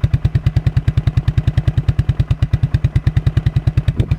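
Suzuki Quadrunner 300 ATV's single-cylinder four-stroke engine idling really low on a cold start with full choke, an even, slow run of about eight to nine firing beats a second.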